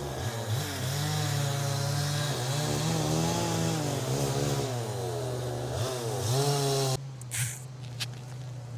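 Chainsaw engine running under load, its pitch rising and falling as it revs. It cuts off suddenly near the end.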